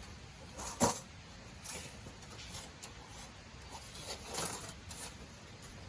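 Thin stainless-steel fire-pit plates being handled and fitted together: one sharp metallic clink about a second in, then a few soft scrapes and rustles.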